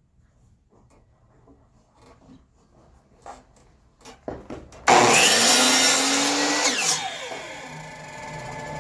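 Electric power saw switched on suddenly and running loud for about two seconds, then spinning down with a falling whine. Light handling clicks come before it.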